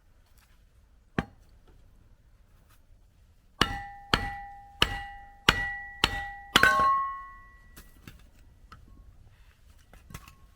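Hammer striking metal while splitting firewood. One blow comes about a second in, then a run of six blows a little over half a second apart, each ringing with a clear metallic tone. The last blow rings at a different pitch.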